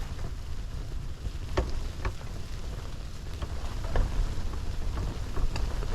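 Strong blizzard wind buffeting the microphone as a steady low rumble, with a few light knocks and ticks scattered through it.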